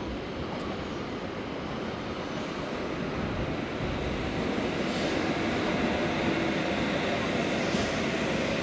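W7 series Shinkansen train approaching as it pulls into the station, a steady rumble and hiss from its running that grows gradually louder.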